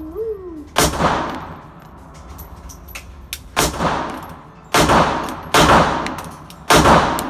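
Five pistol shots from a Glock 42 .380, fired at uneven intervals, each followed by a short ringing echo.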